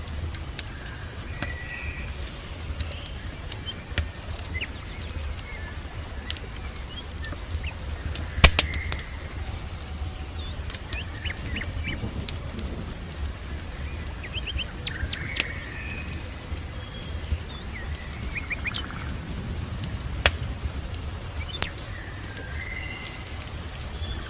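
Small birds chirping and trilling in short, repeated calls over a steady low rumble. Scattered sharp crackles and pops of a wood fire come through, the loudest a single pop about eight and a half seconds in.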